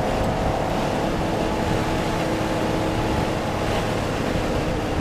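Porsche engine running at a steady pitch, with road and wind noise, heard from inside the car's cabin.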